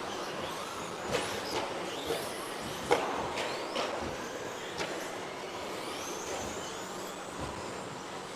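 Electric RC racing trucks with 13.5-turn stock brushless motors running on the track: a steady hiss with several sharp knocks, the loudest about three seconds in. Thin motor whines rise in pitch near the end.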